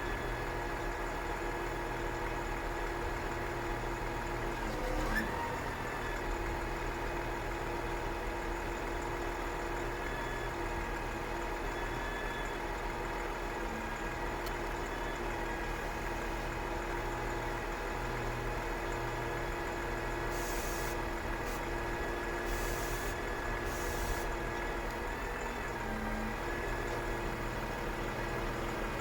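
Volvo FH 540 truck's 13-litre straight-six diesel idling steadily, with a few short hisses about two-thirds of the way through.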